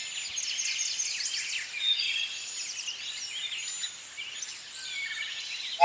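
Many birds chirping and singing at once, a dense overlapping chorus of short high calls.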